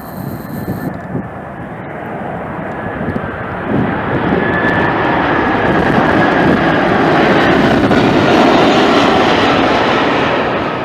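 Jet airliner passing close by, its engine roar building steadily to a peak near the end, with a faint high whine over it. Wind buffets the microphone at the start.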